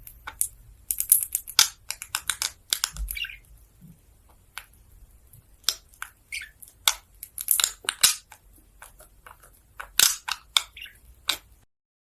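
Irregular run of sharp crunches and cracks, some coming in quick clusters, with a quieter stretch around the middle.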